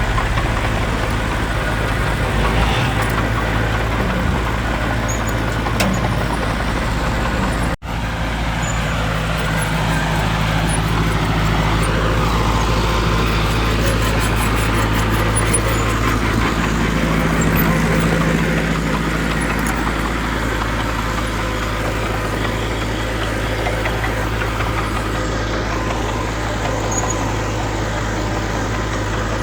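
Diesel engines of heavy earthmoving machinery, dump trucks and a bulldozer, running steadily with a constant low drone. The sound cuts out for an instant a little before eight seconds in.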